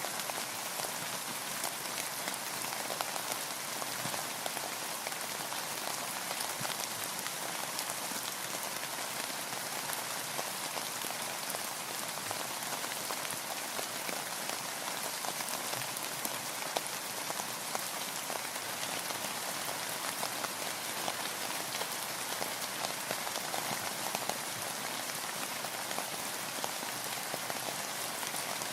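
Steady rain falling: an even hiss with many small, sharp ticks of individual drops hitting a surface.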